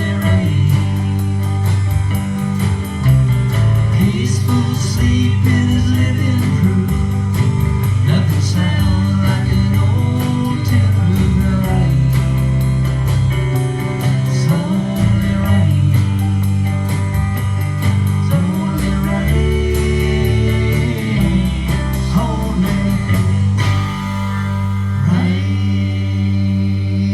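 A live blues-rock band playing a guitar-led passage over bass and a steady drum beat.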